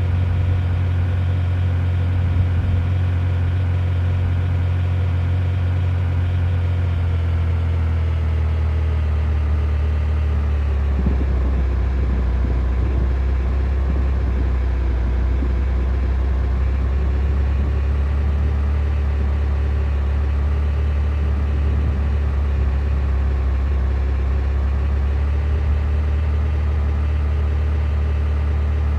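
A vehicle engine running steadily at a low, even pitch, which drops slightly about ten seconds in.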